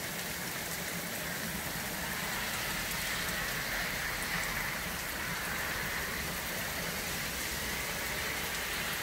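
Heavy rain falling steadily on grass and pavement, an even hiss.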